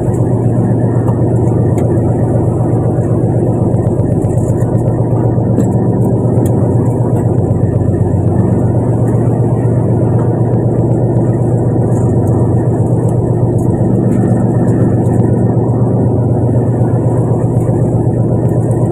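Fishing boat's engine running steadily: a loud, constant low drone that does not change pitch.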